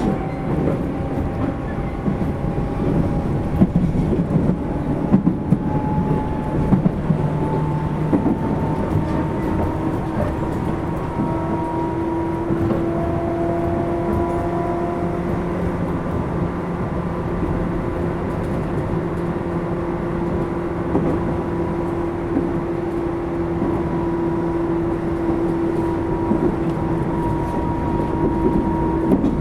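Running sound of a Tobu 10000-series electric train heard inside a motor car: the wheels and bogies rumble over the track, with a few jolts in the first several seconds. Over this rumble the motor and gear whine holds steady, rising slowly in pitch through the first half as the train gathers speed.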